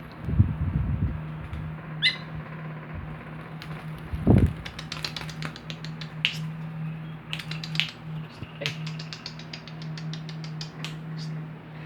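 White-breasted woodswallow (kekep babi) giving a run of short, sharp chips in quick irregular series, over a steady low hum, with one low thump about four seconds in.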